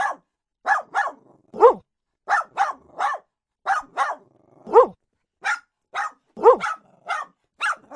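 A dog barking over and over in quick runs of two or three short barks. Every few runs there is a longer bark that drops in pitch.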